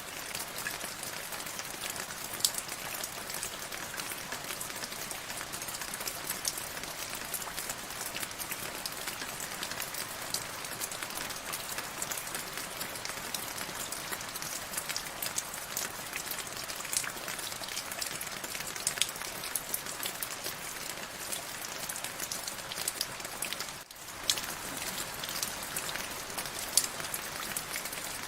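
Steady rain falling, with many single drops striking close by as sharp ticks over the even hiss. The sound dips out for a split second about three-quarters of the way through.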